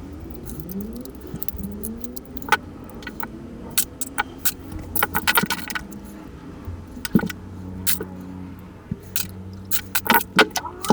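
Scattered clicks and clinks of tools and small plastic and metal parts as a battery-powered plush toy poodle is taken apart, over a low steady hum.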